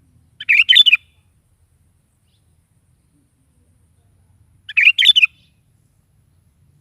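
Sooty-headed bulbul (kutilang) singing two short, quick song phrases, each about half a second long, about four seconds apart.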